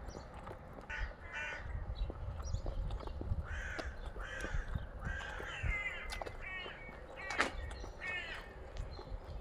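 A series of harsh, grating bird calls, several in quick succession, over a low steady rumble and a few faint knocks.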